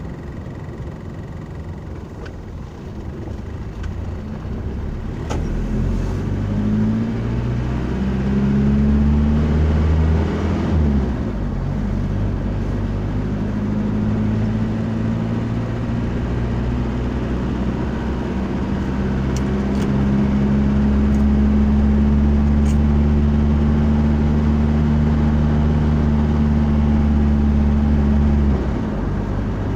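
Car engine under way, its pitch rising as it accelerates, dropping at a gear change about ten seconds in, then holding steady. The engine sound falls away suddenly near the end.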